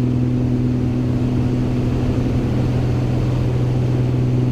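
Beechcraft G58 Baron's twin piston engines and propellers droning steadily in flight, one even hum with no change in pitch.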